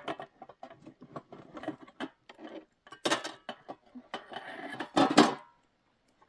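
Irregular clatter of small knocks and clinks, with louder scraping or rustling bursts about three seconds and five seconds in.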